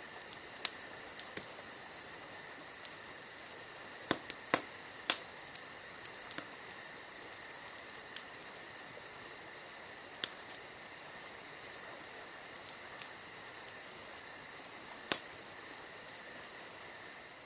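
Wood campfire crackling, with irregular sharp pops, the loudest about five seconds and fifteen seconds in. Crickets chirp steadily behind it.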